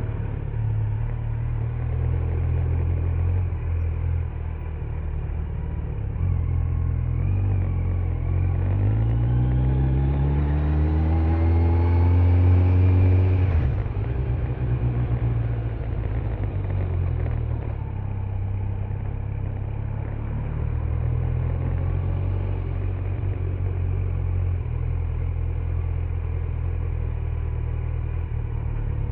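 Kawasaki Z900's 948 cc inline-four on its stock exhaust, running at a steady cruise with road noise. About eight seconds in the engine pulls up through the revs for around five seconds, its pitch rising steadily to the loudest point. The pitch then cuts off suddenly and the engine settles back to an even cruise.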